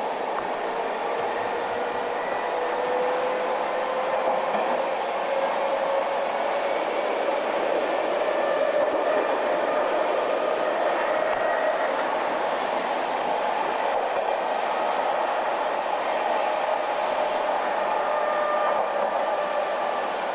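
Odakyu 5200-series electric train running, its motor whine rising slowly in pitch as it gathers speed, then holding steady over the rumble of the running gear.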